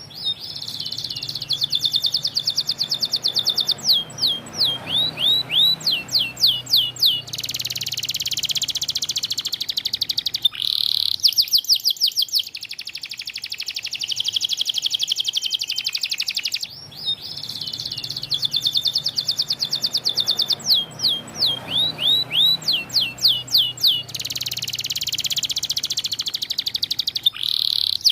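White domestic canary singing steadily, a run of rapid trills, quick repeated notes and sweeping whistled notes with buzzy rolls between them. The same sequence of phrases starts over about two-thirds of the way through.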